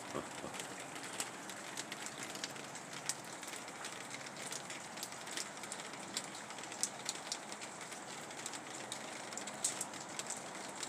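Steady rain falling, an even hiss with scattered drops ticking sharply throughout.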